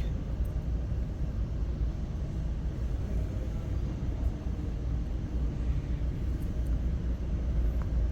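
Steady low rumble of background noise in a large indoor exhibition hall, with no distinct events.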